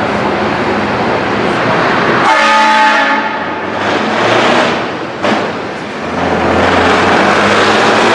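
Truck driving past with its engine running, sounding a multi-tone air horn briefly about two seconds in, followed by more engine noise as trucks pass.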